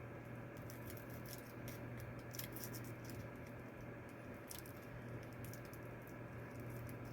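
Faint scattered small clicks of a PEZ candy being chewed, over a steady low hum.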